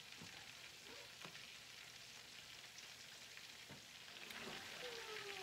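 Breaded chicken frying in oil in a cast iron skillet: a faint, steady sizzle with a few light crackles.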